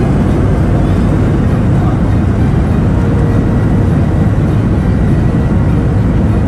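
Airliner engines and airframe heard from inside the passenger cabin: a loud, steady, deep rumble with a faint high whine above it.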